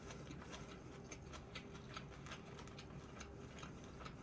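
Faint eating sounds: a string of small, irregular clicks from close-miked chewing and mouth noises.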